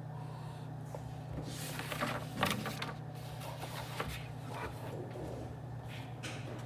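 Office room ambience: a steady low hum with scattered light knocks and rustles, the loudest about two and a half seconds in.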